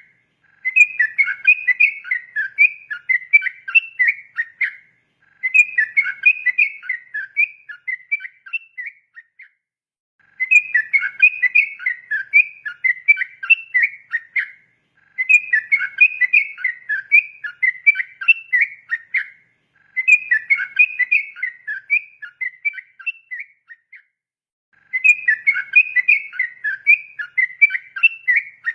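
Yellow-vented bulbul (trucukan) singing a rapid, continuous 'ropel' song of warbling whistled notes. It comes in runs of about four seconds each, six in all, separated by short pauses.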